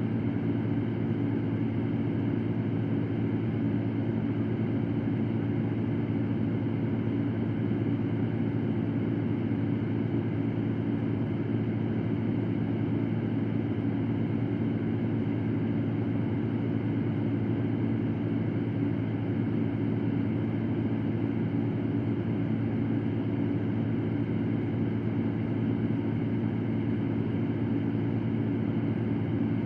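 Electric fan running steadily: an even low whooshing hum with a deep drone, no changes in speed.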